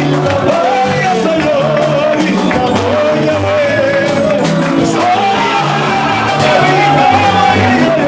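Loud live worship music with singing over a band's repeating bass line and percussion.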